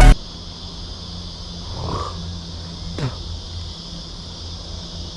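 Cicadas droning in a steady high chorus, with two brief sounds about two and three seconds in, the second a quick falling sweep.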